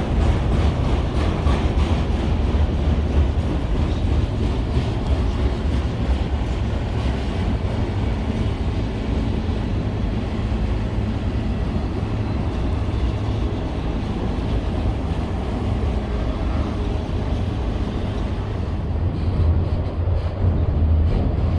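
Freight train of autorack cars rolling past on the main line: a steady rumble and rattle of steel wheels on the rails.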